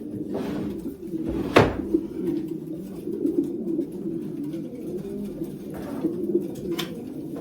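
Many racing pigeons cooing together in a loft, a steady low murmur throughout. A sharp knock about a second and a half in stands out above it, with a few fainter knocks later.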